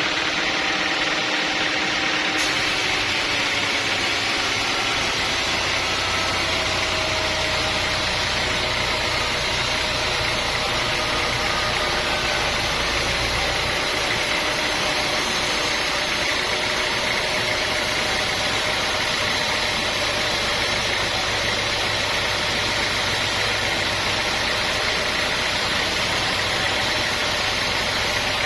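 Sawmill machinery running steadily, an engine-driven hum and whir that holds the same pitch and level throughout.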